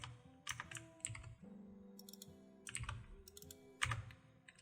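Computer keyboard keys and mouse buttons clicking at an irregular pace, about a dozen clicks, over faint background music with held notes.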